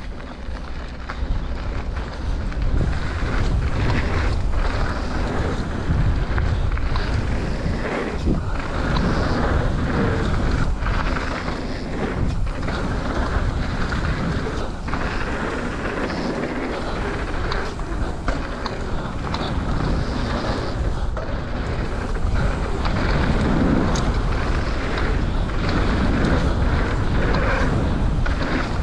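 Mountain bike descending a dirt flow trail: wind buffeting the microphone, with the tyres rolling over the trail surface.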